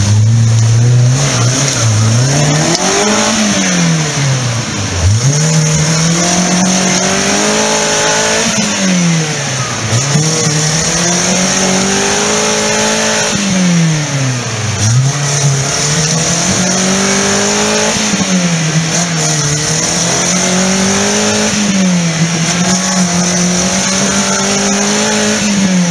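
Off-road 4x4's engine revving up hard and dropping back again and again, a rise and fall every few seconds, as it works under load over rough, uneven ground.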